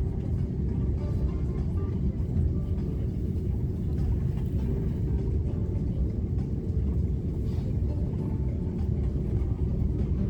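Steady low rumble of an airliner cabin on the ground after landing, with a faint steady hum above it.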